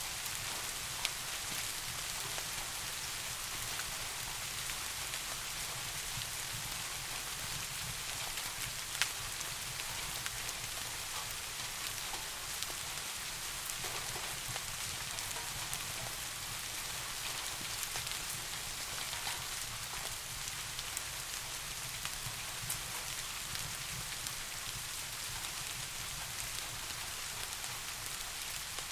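Steady rain falling, an even hiss, with a low steady rumble underneath and a few faint sharp ticks scattered through it.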